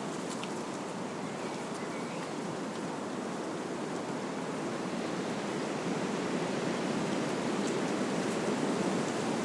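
Wind blowing through trees, a steady rushing of leaves and branches that swells a little about six seconds in.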